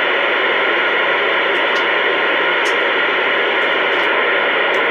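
CB radio receiver hissing with loud, steady static, an open channel carrying noise without any voice.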